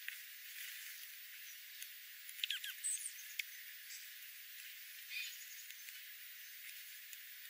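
A few short, high squeaky chirps from a small animal, clustered about two and a half to three and a half seconds in, over a faint steady hiss.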